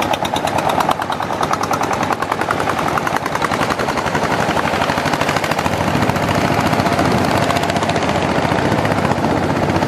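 Long-tail boat's unmuffled engine running at speed: a loud, fast rattle of exhaust pulses.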